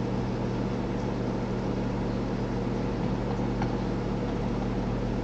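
Steady low electrical hum with hiss, with one faint click about three and a half seconds in.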